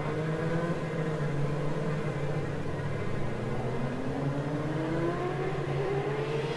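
Car engine running while driving, its pitch slowly rising as it accelerates, over a steady low drone.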